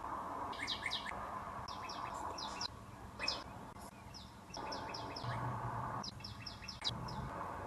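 Small birds chirping: short phrases of quick, high, downward-sliding notes, repeated about once a second, over a steady background noise.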